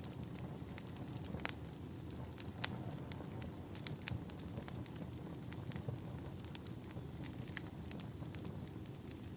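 Crackling wood fire: a steady low rush with irregular sharp pops and snaps, a few a second.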